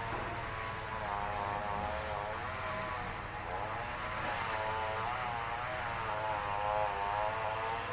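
A small engine droning steadily, its pitch wavering gently up and down.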